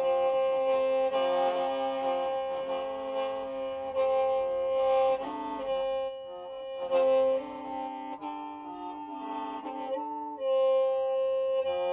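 Qeej, the Hmong bamboo free-reed mouth organ, being played: a steady held drone note beneath a melody of changing notes.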